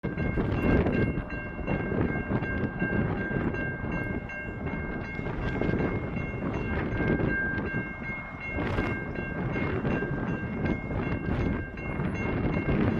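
Two Aurizon ACD-class diesel-electric locomotives running light engine past a level crossing: their engines and wheels on the rails make a loud, surging rumble. Steady high warning tones ring over it throughout, most likely the level crossing bells.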